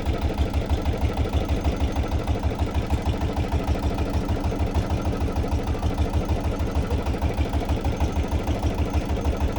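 Boat engine running steadily, a low even thudding about five beats a second.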